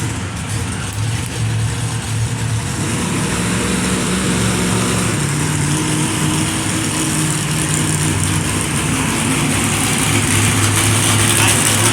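Monster truck engine running loud and steady, growing slowly louder.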